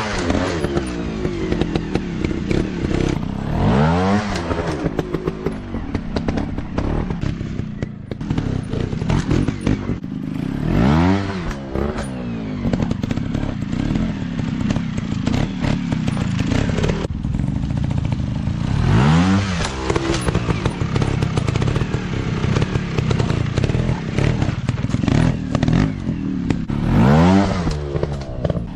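Dirt bike engine running under load, revving up and easing off about five times, with knocks and clatter from the bike working over rough ground.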